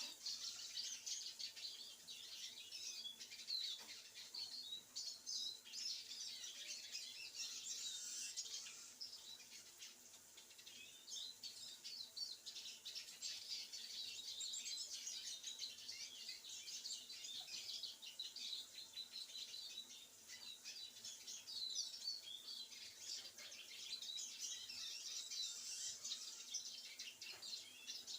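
Small pet songbirds singing: a continuous run of rapid high chirps and twitters.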